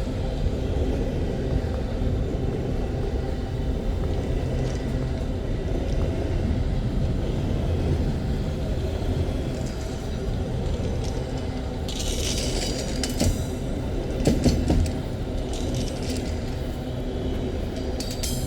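Freight train wagons rolling past on steel rails: a steady low rumble, with several short high-pitched metallic squeals from about twelve seconds in.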